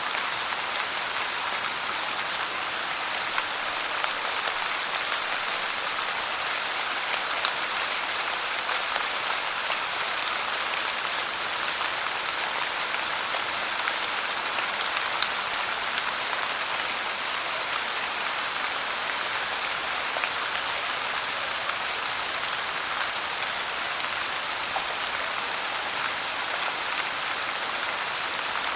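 Steady rainfall, a dense even patter of drops with small scattered ticks from single drops hitting nearby.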